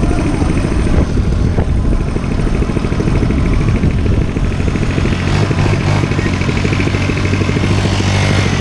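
Dirt bike engine running steadily, with its low engine note settling into an even drone in the second half.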